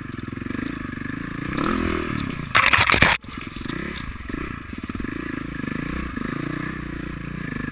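Motocross bike engine revving up and down over and over. About two and a half seconds in, a loud burst of rushing noise lasts under a second and cuts off abruptly.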